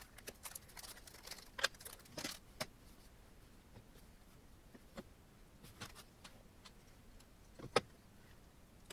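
Scattered light clicks and small metallic taps of printer parts and screws being handled during assembly, with one sharper knock near the end.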